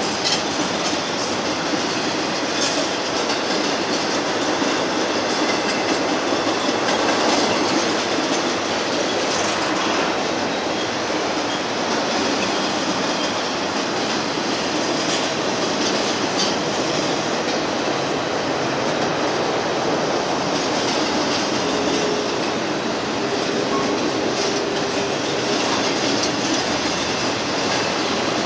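Double-stack container well cars rolling past on steel rails: a steady rumble and hiss of wheels on track, with occasional clicks and a faint brief whine about three quarters of the way through.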